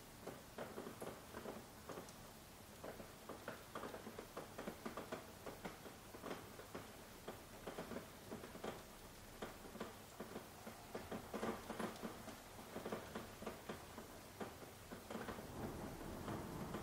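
Soft rain: irregular drops tapping, several a second, over a faint hiss.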